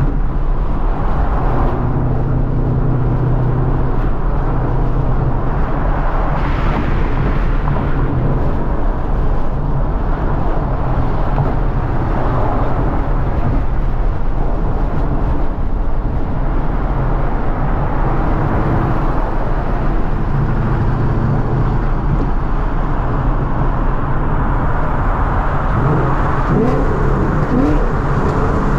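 2014 Ford Mustang GT's 5.0-litre V8 running at a steady cruise with tyre and road noise; near the end the engine note glides up and down as it picks up revs.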